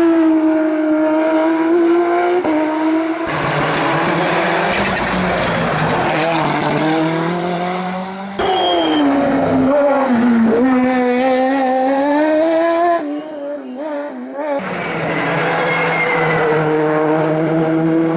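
Race cars on a hillclimb at full attack, engines revving hard, the pitch climbing and dropping with gear changes and braking, and tyre squeal in places. The sound cuts abruptly between passes several times, with a quieter stretch about thirteen seconds in.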